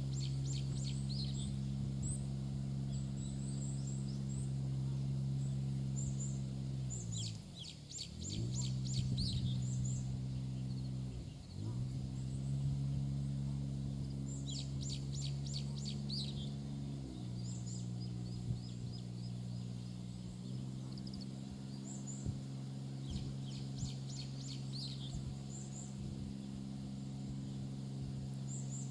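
A steady low mechanical hum whose pitch dips and recovers a few times, with repeated bursts of rapid, high chirping calls over it.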